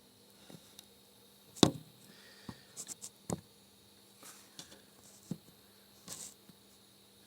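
A few scattered clicks and knocks of things being handled, with one sharp knock about a second and a half in, over a faint steady hum.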